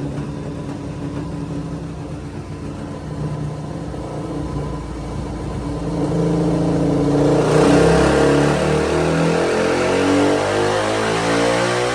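Suzuki DR-Z400 single-cylinder four-stroke engine through an MRD Z-Pro exhaust on a dyno, running at low revs and then, about halfway through, opened up so the revs climb steadily and the sound gets louder, as in a dyno pull.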